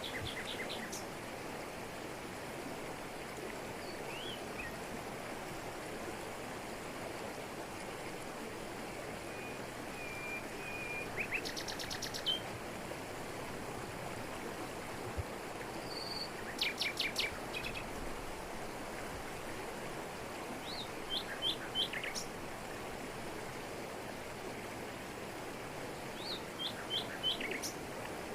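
Waterfall rushing steadily over rocks, with short chirping bird calls every few seconds, among them a quick rattling trill near the middle.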